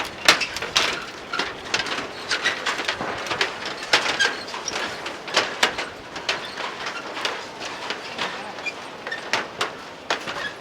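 Irregular clicking and clattering, several knocks a second, from the deck of a suspension footbridge rattling under people walking on it, over a steady hiss.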